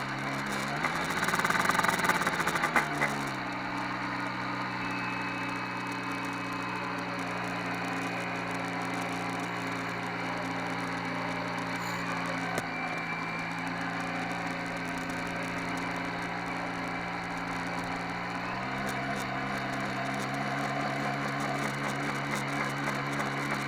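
Radio-controlled model boat's motor running with a steady hum. It speeds up and gets louder for a couple of seconds at the start, drops back to a lower speed, then steps up again about 18 seconds in.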